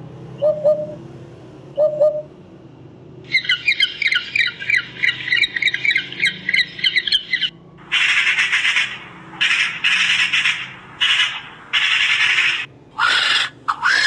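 Eurasian hoopoe giving two short phrases of low hooting notes, then a Eurasian magpie's rapid rattling chatter for about four seconds. This is followed by a series of harsh, rasping calls, the last of them from a vulture.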